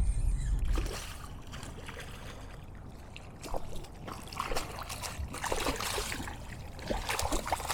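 Water trickling and lightly splashing beside a kayak, with scattered small clicks and knocks.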